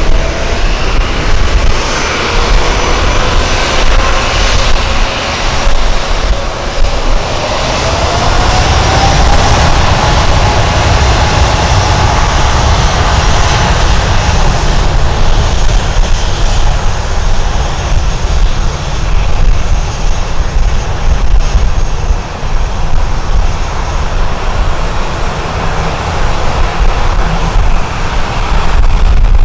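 Airliner engines running loud, with a heavy low rumble. Their whine rises in pitch about a third of the way through, then holds steady.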